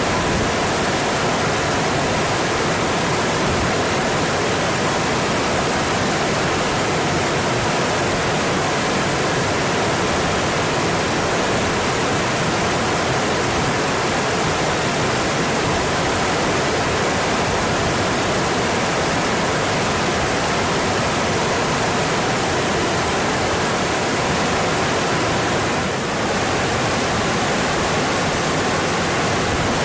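Mountain stream rushing over a rocky bed: a steady, dense water noise with no breaks.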